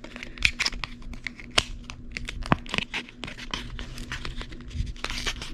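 The packaging on a deck of playing cards being torn open by hand and crinkled: a quick, irregular run of crackles and rips.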